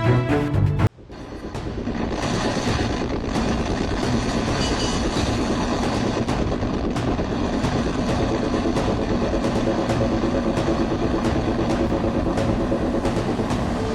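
Background music cuts off about a second in. A steady mechanical rumble follows, with a faint hum and light regular ticking, like engine or machinery noise on a vessel.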